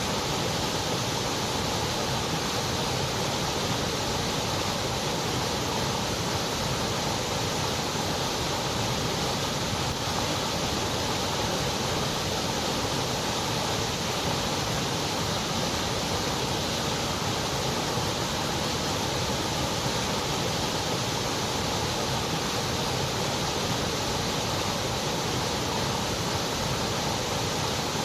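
Steady, unchanging white noise: an even hiss with no rhythm, tones or separate events.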